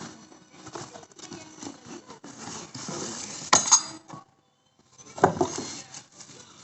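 Hand-handling noise from unboxing motorcycle accessory parts: packaging rustling, and hard parts clinking against each other. Two sharp clinks come a little past halfway, the sound drops out briefly, then another loud clatter follows.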